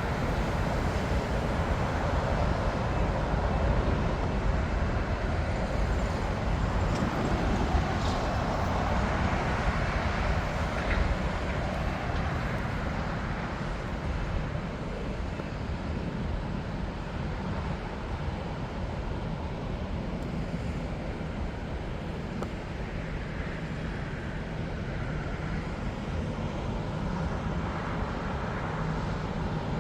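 Steady rumble of jet aircraft engines. It is a little louder over the first dozen seconds, then eases off.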